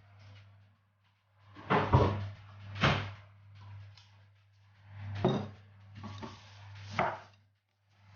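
Kitchen clatter: a handful of sharp knocks and bangs, about four of them spread a second or two apart, as things are handled and set down.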